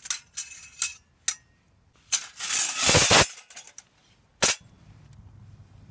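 Folding metal BBQ grill being handled and opened: a few sharp metal clicks, a loud scraping rattle lasting about a second around two seconds in, and one sharp clank near the end.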